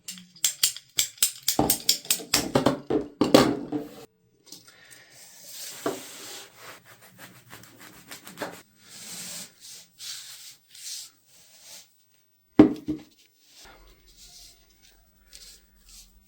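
Hands working materials for a duct tape boffer sword: a quick run of sharp crackles and taps over the first four seconds, then rubbing and scraping, and one sharp knock about twelve and a half seconds in.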